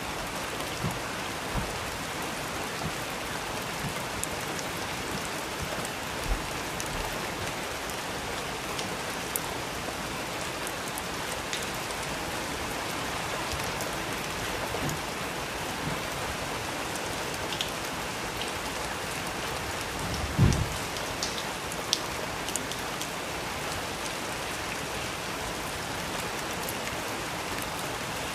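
Steady rain falling, an even hiss with scattered drip ticks, and one short low thump about twenty seconds in.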